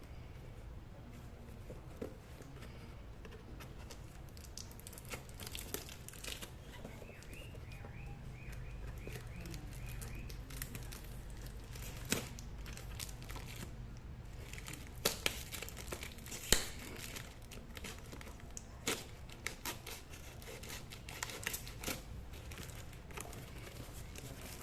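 Packaging being opened by hand: tearing and crinkling of wrapping, with irregular sharp snaps and clicks scattered through, the loudest about halfway in.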